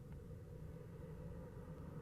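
Faint steady low hum and hiss of a nest-box camera's microphone, with one tiny click just after the start.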